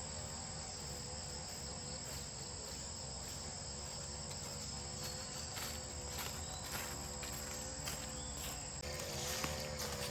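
Insects trilling: a steady, high, continuous buzz that cuts off near the end, with a few faint clicks in the middle.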